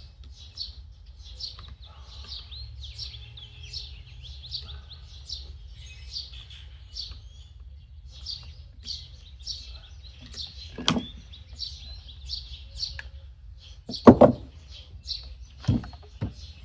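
Small birds chirping in a busy, continuous string of short high notes, with a few sharp knocks of parts or tools being handled. The loudest knock comes about fourteen seconds in.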